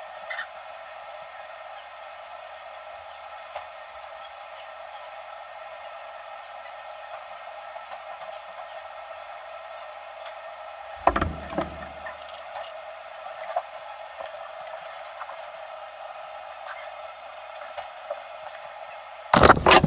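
Water running steadily, as from a tap, with two knocks, one about halfway through and a louder one near the end.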